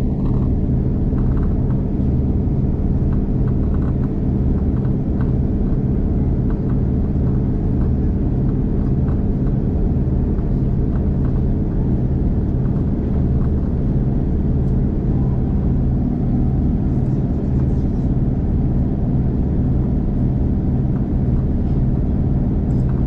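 V/Line diesel passenger train running along the line, heard from aboard: a steady loud rumble with a constant low engine hum.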